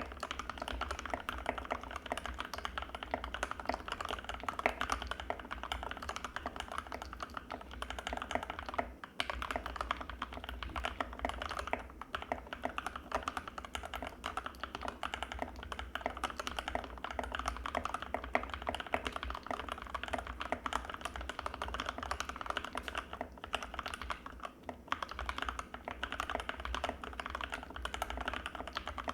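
Anne Pro 2 mechanical keyboard with Gateron Red linear switches being typed on steadily, a dense stream of keystrokes with a few brief pauses.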